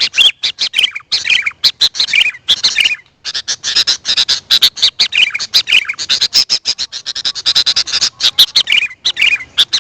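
Sooty-headed bulbul (kutilang) calling: rapid, nearly continuous chirps and warbling notes, with a short pause about three seconds in.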